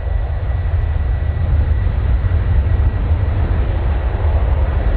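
Jet airliner engines running, a loud, steady rumble with hiss above it.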